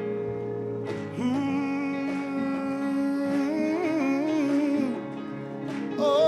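Gospel worship music: a singer holds one long wordless note with vibrato over sustained instrumental chords, with a short sung phrase entering near the end.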